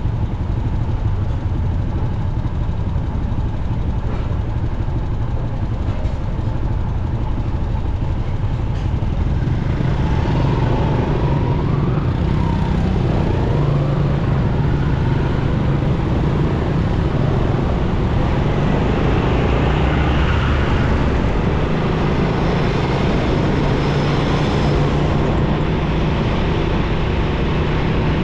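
Steady road noise of a motorcycle ride through city traffic: the bike's engine and wind on the microphone, mixed with surrounding traffic. It grows louder and fuller about ten seconds in.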